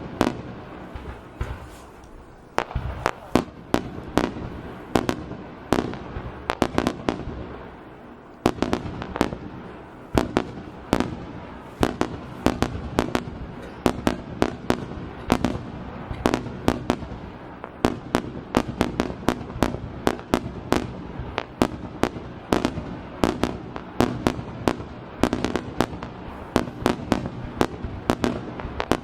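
Aerial firework shells bursting in a rapid barrage, several sharp bangs a second over a continuous low rumble. The bangs come thinner early on and grow denser from about eight seconds in.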